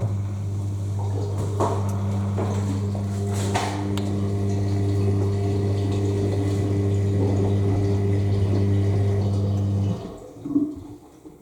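AEG L7FE7461BI washing machine's drain pump switching on and pumping the main-wash water out, a steady hum over rushing water. It cuts off suddenly about ten seconds in, followed by a short gurgle.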